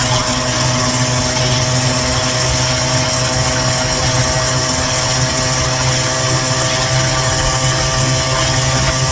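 Small gasoline engine of a gas scooter running at a steady speed under way, a constant drone that holds one pitch throughout.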